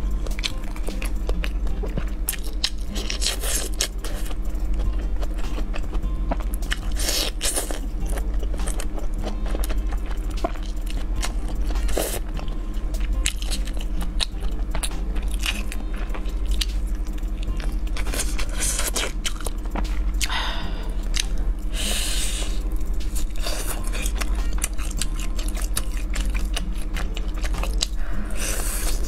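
Close-miked biting and chewing of fried, sauce-coated skewered food pulled off bamboo sticks, with crunchy bites every few seconds over a steady low hum.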